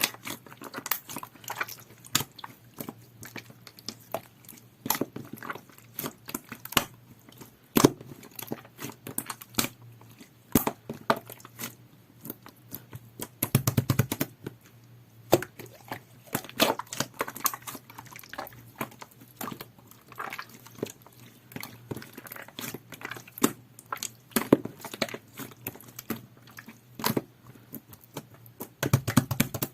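Clear jelly-textured slime being squished and pressed by hand, making irregular wet clicks and pops. The clicks come thickest about a third of the way in and again near the end.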